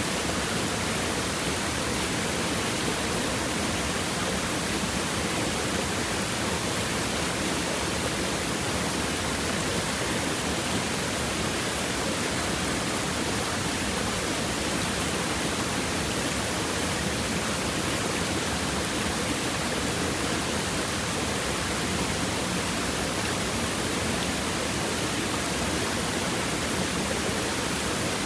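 Water of a rocky stream running steadily over river stones, an even, unbroken hiss.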